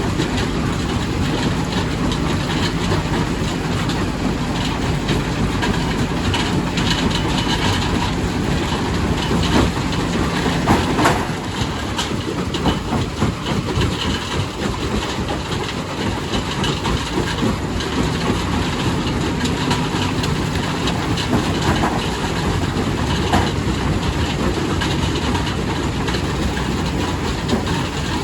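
Quarry primary rock crusher running and breaking stone, a steady dense clatter of rock with many small knocks and a sharp crack about eleven seconds in.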